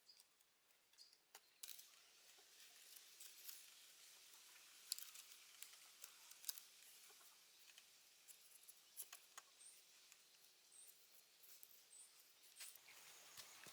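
Near silence: faint scattered clicks and rustles, with a few tiny high chirps.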